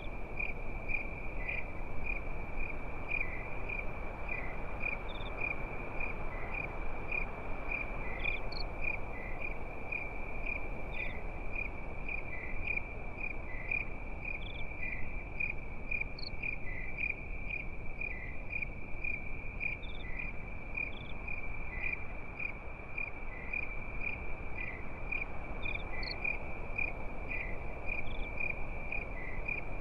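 Crickets chirping at night: a continuous high-pitched trill that pulses at an even rhythm, with a few fainter, higher chirps scattered through it, over a low steady hiss.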